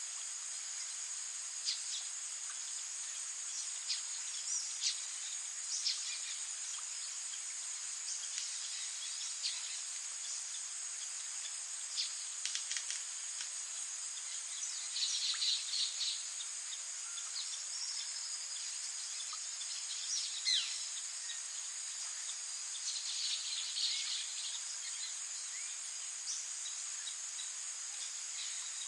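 A steady, high-pitched insect trill runs throughout, with short bird chirps scattered over it. There are two brief bouts of quicker twittering, about fifteen and twenty-three seconds in.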